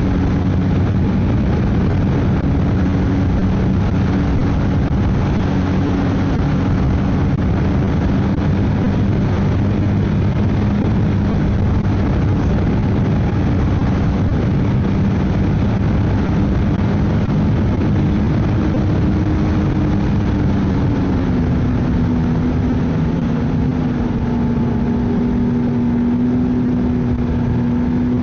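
Ski-Doo snowmobile engine running steadily at trail speed over an even rushing noise. Its pitch drops slightly about three-quarters of the way through.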